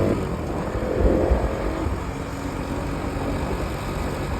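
Bajaj Pulsar NS200's single-cylinder engine just off the throttle on a downhill, dropping to a lower, steadier note as it engine-brakes, with a short rise about a second in.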